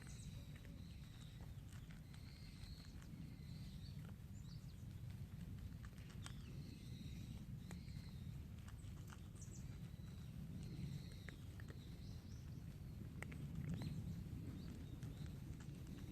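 Faint outdoor ambience: a steady low rumble with short, soft high chirps and scattered small clicks.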